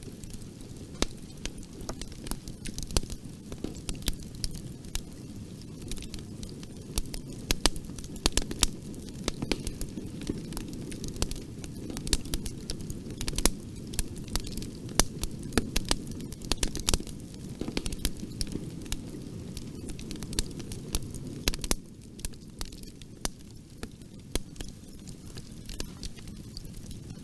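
Fire in a fireplace crackling, with frequent sharp pops over a steady low rush of burning; the low rush eases slightly about three-quarters of the way through.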